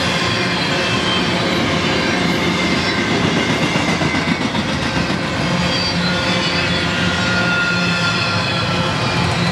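Double-stack intermodal well cars rolling past on steel rail: a steady, loud rolling noise of wheels on track, with thin high tones drifting over it.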